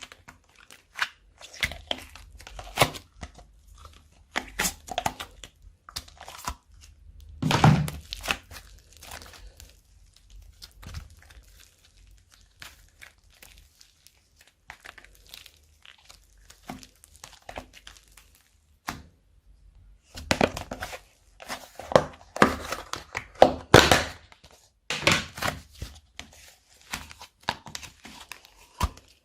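Slime being mixed and squished, a run of irregular wet crackles and pops. It goes quieter in the middle and is busiest near the end.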